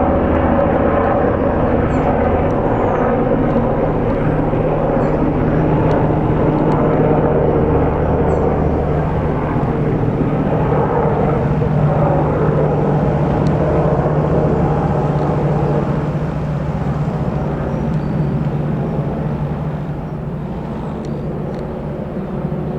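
Twin-turbine Sikorsky S-92A helicopter flying past, a steady loud drone of rotor and turbines with a low hum, slowly fading over the last several seconds as it moves away.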